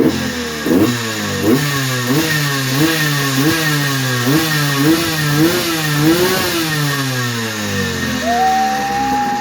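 A 1983 Suzuki PE175's single-cylinder two-stroke engine being revved in quick, even throttle blips, about one and a half a second, with a longer rev near the end. The engine has just been rebuilt with a fresh piston and rings and tuned, and it runs crisp.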